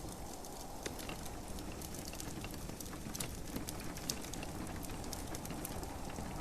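Wood fire crackling with scattered sharp pops, over a steady hiss of gentle rain.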